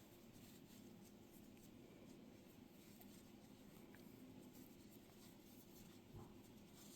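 Near silence: faint rustling and scratching of yarn and a crochet hook being worked by hand, over a low steady room hum.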